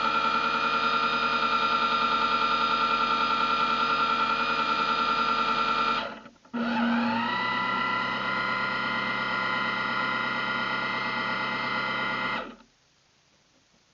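Small electric motor of an RC boat whining steadily. It cuts out about six seconds in, spins back up with a short rise in pitch, runs evenly again and stops shortly before the end.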